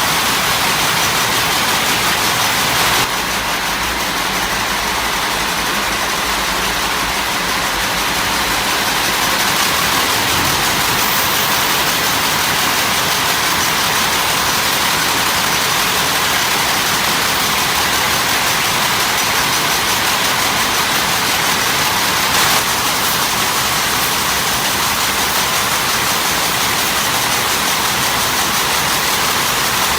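Steady, loud factory machinery noise: a dense din with no clear rhythm, changing abruptly about three seconds in and again about twenty-two seconds in.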